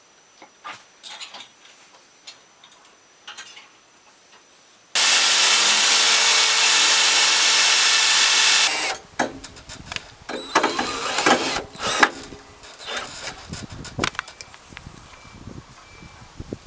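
A power tool running steadily at full speed for about four seconds, starting and stopping abruptly about five seconds in. Light clicks come before it and irregular knocks and clatter of handled parts after it.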